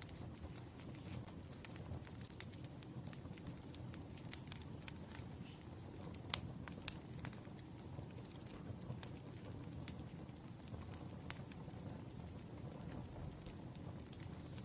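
Burning firewood crackling: a steady low rumble of flames with irregular sharp pops and snaps, the loudest about six seconds in.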